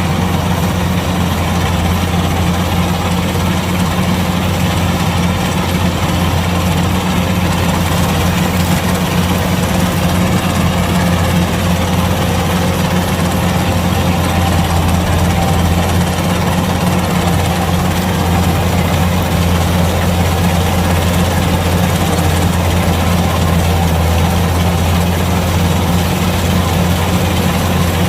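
Kubota DC-105X combine harvester's diesel engine running steadily at a constant speed, with an even mechanical hum and no change in pitch.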